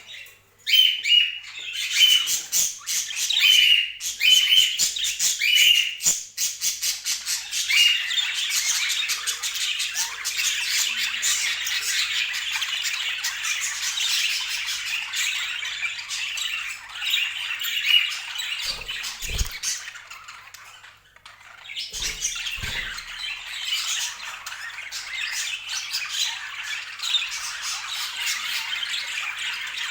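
Budgerigars chattering, with a dense, continuous stream of chirps and squawks and a short lull about two-thirds of the way through.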